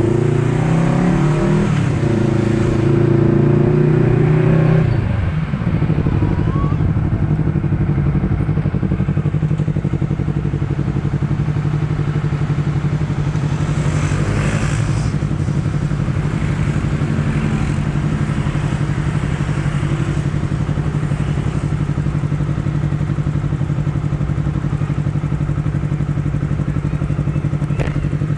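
Honda CBR250RR parallel-twin motorcycle engine under way, its pitch rising for the first few seconds, then the revs falling sharply about five seconds in before it settles to a steady cruise. A brief rush of noise comes around the middle.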